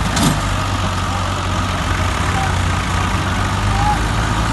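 Farm tractor diesel engines running steadily with a low, even drone.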